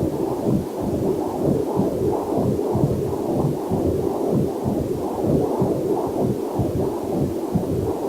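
Fetal heartbeat picked up by a Doppler heart monitor: a fast, even, whooshing pulse, a little over two beats a second, with a faint waterfall mixed in underneath.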